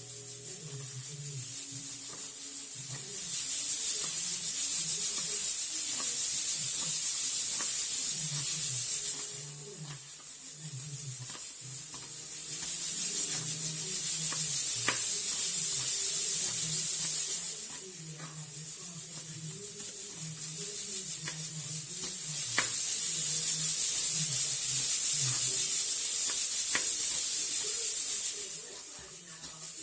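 Loud hissing in three long stretches of about five to six seconds each, starting about 3, 12 and 22 seconds in, with a few faint clicks between them.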